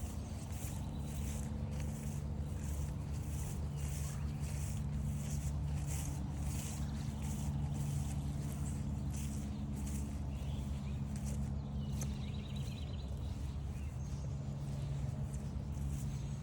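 Footsteps at a steady walking pace, about two steps a second, over a steady low hum.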